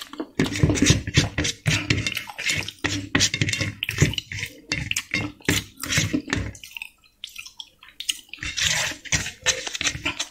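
Loud, wet open-mouthed chewing and lip-smacking of a mouthful of rice and chicken liver fry close to the microphone, in quick clicks with a short pause about two-thirds of the way through.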